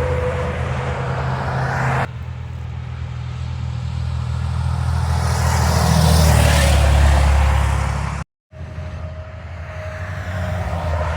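Tractor-trailer trucks passing on an interstate highway: a steady low diesel drone with a slowly falling whine, and tyre and engine roar that swells to a peak about six to seven seconds in. The sound breaks off abruptly about two seconds in and again just past eight seconds.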